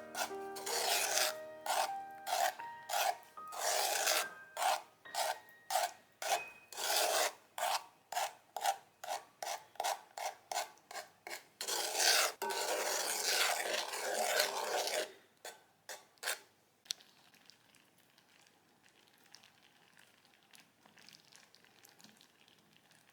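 A spoon scraping around a saucepan as treacle toffee mixture is stirred, in rhythmic strokes about two a second. The stirring stops about sixteen seconds in, leaving only a faint hiss.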